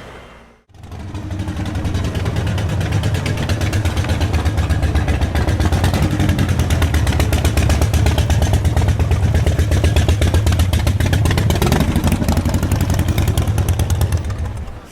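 A motor vehicle's engine running close by, with a fast, steady pulse and a heavy low rumble.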